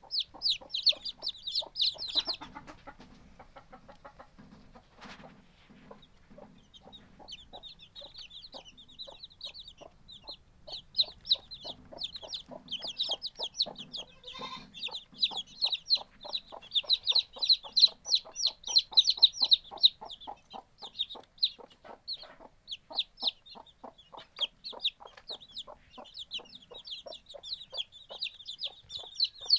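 A group of baby chicks peeping: many short, high-pitched cheeps in quick succession that thin out for a few seconds near the start and then keep up busily.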